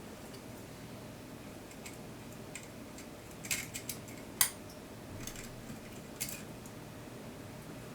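Scattered light clicks and taps of small metal tools and camera parts being handled during the repair of a twin-lens reflex camera: a quick cluster about halfway, one sharper click just after, and a few fainter ones near the end.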